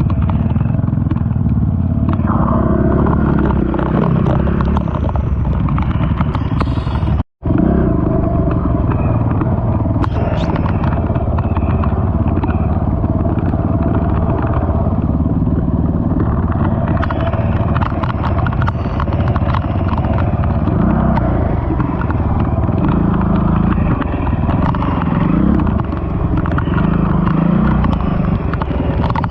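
Honda TRX450 quad's single-cylinder four-stroke engine running under load on a trail ride, its pitch rising and falling with the throttle, with rattling from the machine over rough ground. The sound breaks off for an instant about seven seconds in.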